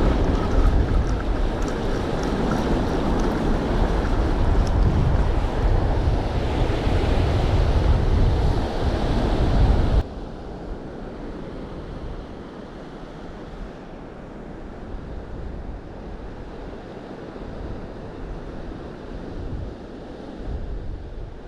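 Ocean surf washing on the beach with wind buffeting the microphone. About ten seconds in it cuts abruptly to much quieter, duller surf.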